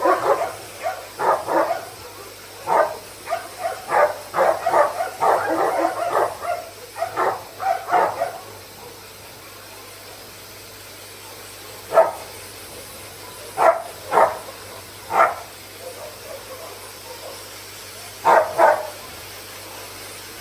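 Dogs barking: a quick run of barks for the first eight seconds, then single barks and pairs every few seconds.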